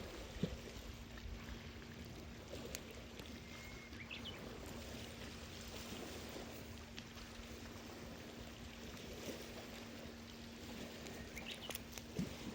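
Steady wash of sea water along the shore, with a faint steady hum. A few sharp clicks sound, the strongest about half a second in, and two short rising chirps come about 4 s in and near the end.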